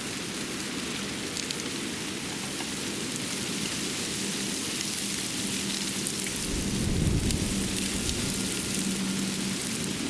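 Steady outdoor hiss of a snowy winter forest with faint scattered ticks, like light pattering. A low rumble swells about six seconds in and fades about two seconds later.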